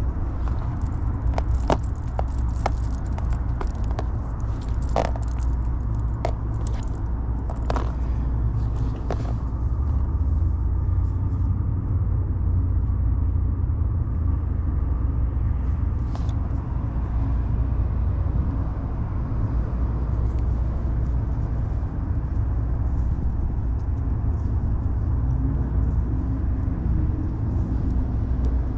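A steady low rumble, with sharp clicks and small rattles during roughly the first ten seconds and a few more later.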